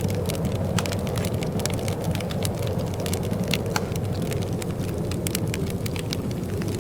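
Wood fire crackling in a fireplace: frequent, irregular small pops and snaps over a steady low rumble.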